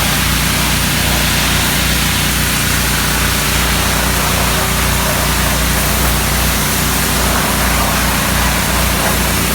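A petrol pressure washer running, its engine droning steadily under the loud hiss of the water spray.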